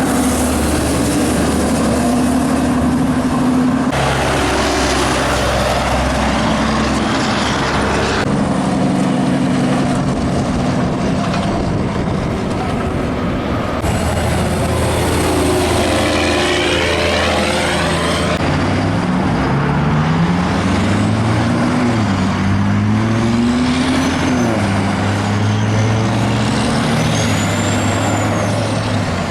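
Heavy diesel trucks passing on a highway, one after another, their engine notes rising and falling as they go by, with tyre and road noise throughout.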